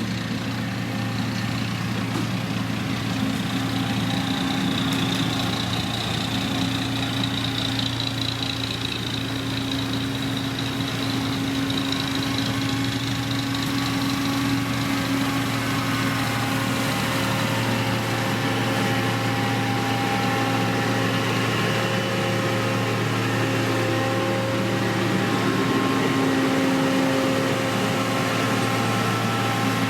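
Heavy diesel engine of road-construction machinery running steadily, a constant low hum with higher engine tones that waver slightly.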